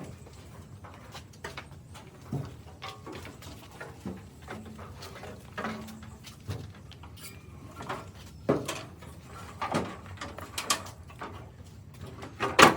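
Scattered light knocks and clicks at irregular intervals, a few louder ones near the end, over a faint steady background hum.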